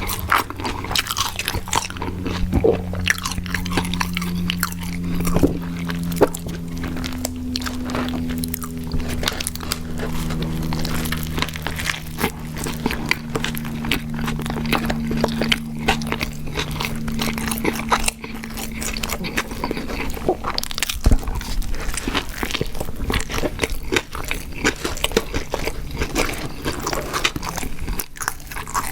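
Close-miked, crunchy chewing and biting of fast food, dense irregular crunches throughout, over a faint low steady hum.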